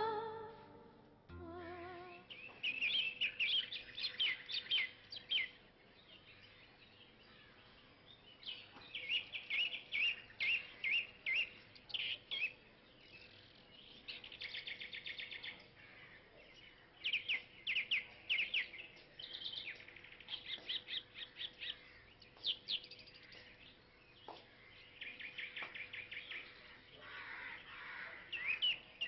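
Small birds chirping outdoors: clusters of quick, repeated high chirps that come and go every second or two, over a faint steady hum.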